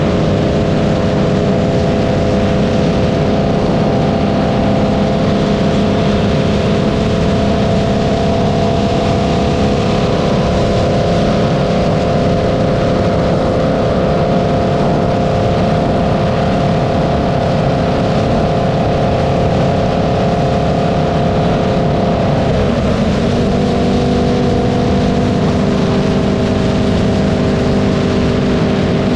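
Holden Commodore's cammed LS3 V8 running at a steady cruise, heard from a camera mounted on the car's body under heavy wind and tyre rush. About 23 s in the engine note dips and settles lower, as at an upshift.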